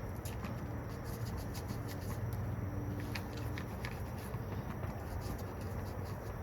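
Hand scrubbing and wiping on a STIHL 020T chainsaw's parts during cleaning: irregular rubbing with many quick small scratches and clicks, over a steady low hum.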